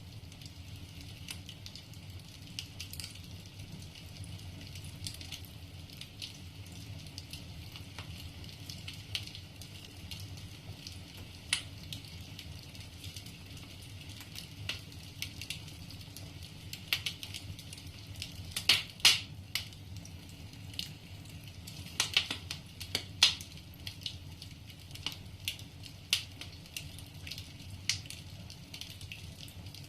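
Wood fire burning in a fireplace: a steady low rumble of flames with scattered sharp crackles and pops from the burning logs, with two clusters of louder pops about two-thirds of the way through.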